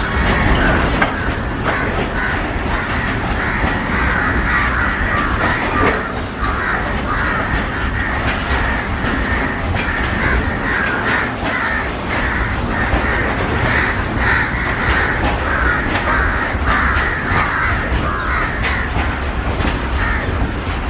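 Freight train of open wagons rolling past: a steady low rumble, rapid sharp clicks from the wheels, and harsh, repeated screeching throughout.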